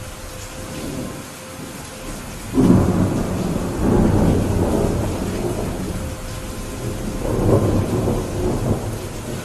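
Steady rainfall with a roll of thunder that breaks in suddenly about a quarter of the way in, rumbles for several seconds and swells again near the end.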